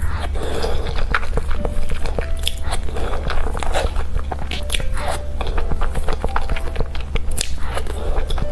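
Close-miked mouth sounds of eating soft mille-crepe cake: wet chewing and smacking with many small lip and tongue clicks, over a steady low hum.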